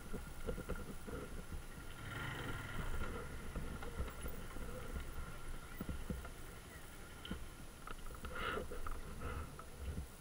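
Mondial Drift 125 motorcycle's small single-cylinder engine running at low speed as the bike moves off slowly, a low steady rumble.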